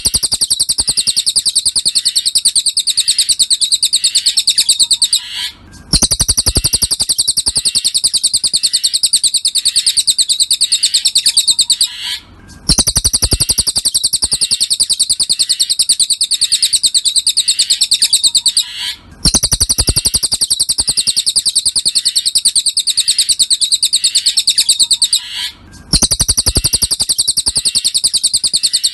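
Recorded cililin song played as a masteran tutor track: a fast, continuous high-pitched trill of rapidly repeated chirps. It comes in runs of about six seconds, each broken by a pause of about half a second, four times over.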